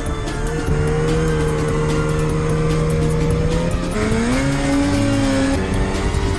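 A motor vehicle engine running at high revs, its pitch held steady, then rising about four seconds in and dropping again over the next second and a half.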